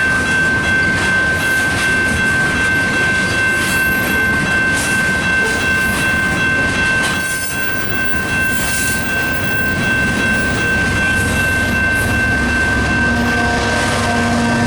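Loaded tank cars of a CP freight train rolling past, wheels clattering over rail joints, with a steady high-pitched ring held over the rumble. A lower hum joins near the end.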